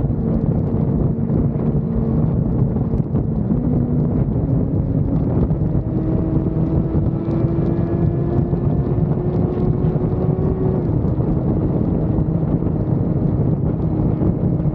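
Suzuki GSX-R600 inline-four engine running as the bike rides, under heavy wind noise on the microphone. The engine note steps up a few seconds in, climbs slowly, then drops sharply about eleven seconds in.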